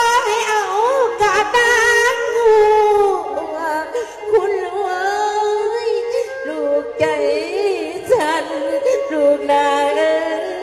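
A woman singing lam, the Lao/Isan sung poetry, in long wavering, ornamented phrases over a steady drone accompaniment.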